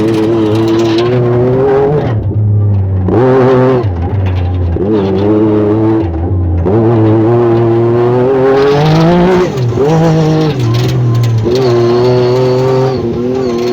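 Yamaha YXZ1000R side-by-side's three-cylinder engine under way off-road, revving up and falling back again and again as the throttle and gears change, with its longest climb in pitch a little past the middle.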